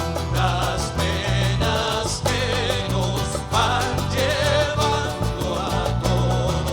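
A band playing Latin American folk-popular music, with a rhythmic bass and guitar accompaniment under a wavering melody line.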